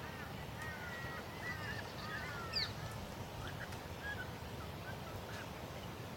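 Birds calling: a quick run of short, curving chirps through the first three seconds, one sharper and louder about two and a half seconds in, then a few scattered calls, over a steady low rumble.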